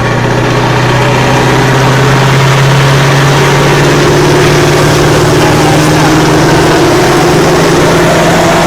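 Heavy truck's diesel engine running under load, its pitch climbing slowly and steadily as the revs build.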